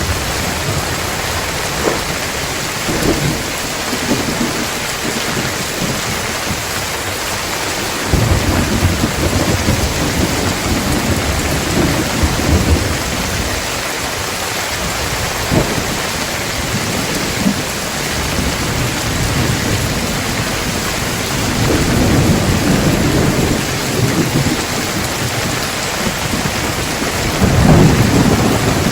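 Steady rain falling, with thunder rumbling low several times; the loudest rumble comes near the end.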